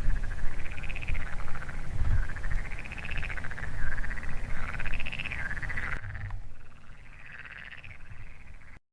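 Chorus of frogs croaking at a lake, many fast-pulsed calls overlapping and wavering up and down in pitch, over a low rumble. It drops in level about six seconds in and cuts off just before the end.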